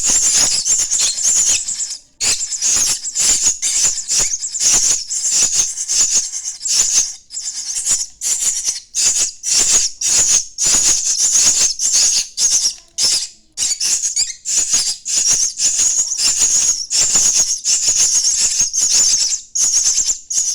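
Starling nestlings' harsh, raspy begging calls, repeated rapidly several times a second with a few short pauses.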